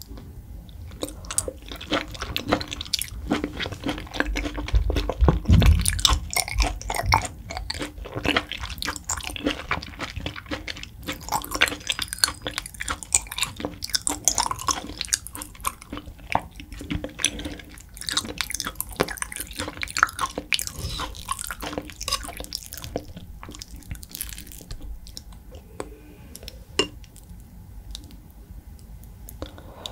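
Close-miked chewing of raw beef topped with sea urchin: many quick mouth clicks, busiest in the middle and thinning out near the end.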